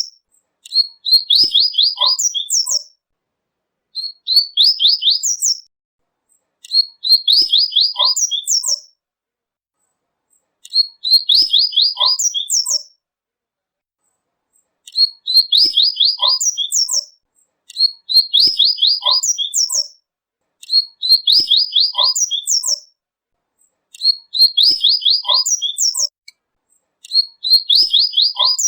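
Coleiro (double-collared seedeater) singing its tui-tui song. It repeats the same phrase about every three seconds: a quick run of chirping notes ending in a few higher, sharper notes.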